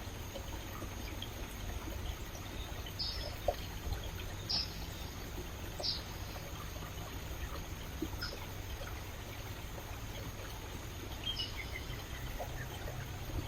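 Rainforest stream flowing and trickling steadily over rocks. A few short, high chirps stand out now and then.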